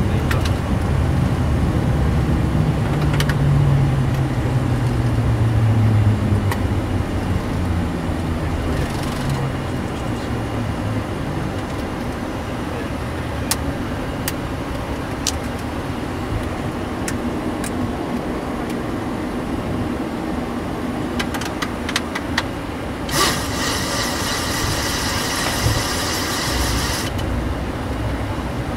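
Boeing 737-600 cockpit noise after landing, its CFM56 engines winding down in pitch over the first few seconds, then a steady hum. Scattered sharp clicks, and a harsh buzzing sound lasting about four seconds near the end.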